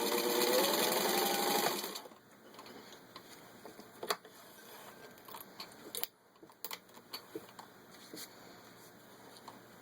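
Vintage 1952 Singer 15-91 sewing machine running as it stitches through four layers of thin leather, its pitch rising steadily as it speeds up, then stopping about two seconds in. After that come scattered light clicks and taps.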